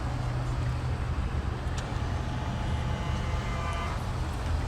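Citroën C-Crosser's engine running with a steady low hum. Over it, the electric motor of a power-folding door mirror whines faintly for about two seconds near the middle and stops.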